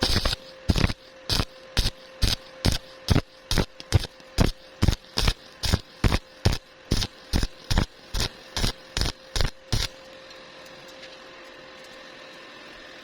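Even, repeated sharp strikes of a hammer on metal, about two a second, stopping about ten seconds in. After that only a steady faint hiss remains.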